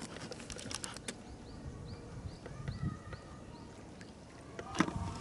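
A small bird calling a quick series of short, high chirps, about three a second. A few faint clicks come first and a sharp knock near the end.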